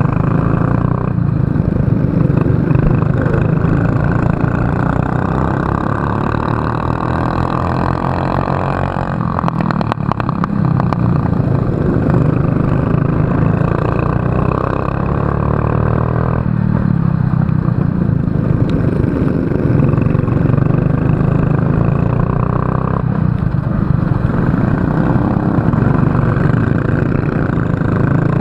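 Racing kart engine heard from onboard, running hard and steady, its note easing and building again several times as the throttle changes, with a brief clatter about ten seconds in.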